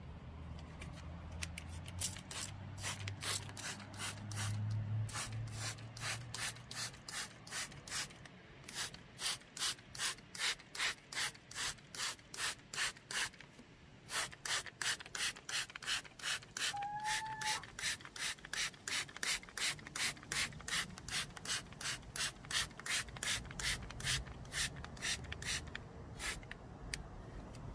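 A hand spray bottle squeezed over and over, each squeeze a short hiss of water mist, about two to three a second, pausing briefly about halfway through. A brief rising squeak sounds just after the pause.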